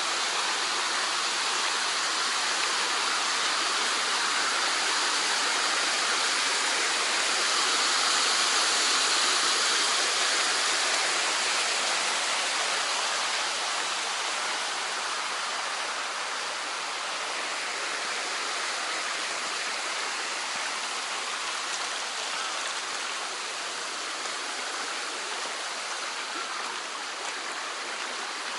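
Mountain stream rushing steadily over rocks, a constant splashing hiss that swells a little about a third of the way in and then eases slightly.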